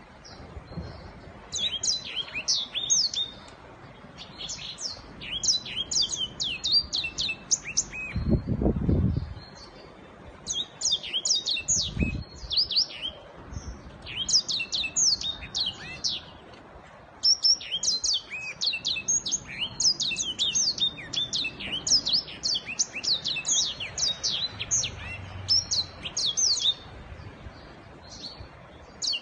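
Black-throated canary singing: long bouts of rapid, high, twittering notes broken by short pauses. Two low thuds come about a third of the way in.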